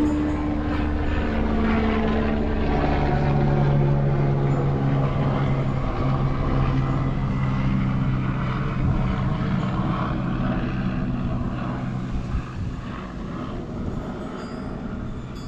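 A vehicle engine running with a steady hum; its pitch drops a few seconds in, and the sound fades off after about twelve seconds.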